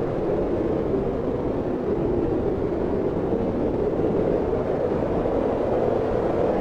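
Steady wind blowing, a low rushing noise with slow, gentle swells in strength.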